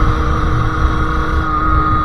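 Two-stroke engine of a Sherco SM-R 50cc supermoto with a KRM aftermarket exhaust, running at steady revs while riding. The pitch drops slightly near the end as the revs come down a little.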